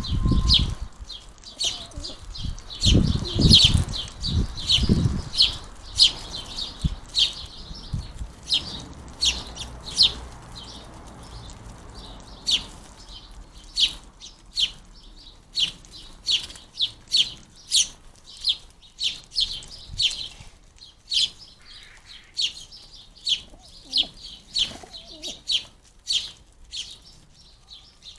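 House sparrows chirping repeatedly, short high chirps about one to two a second, the persistent calling of begging fledglings at a feeder. A few loud low thumps in the first five seconds.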